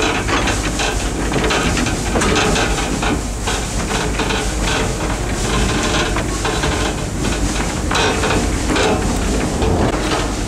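Train running along rack-railway track, heard from aboard: a steady rushing noise with frequent irregular knocks and clanks.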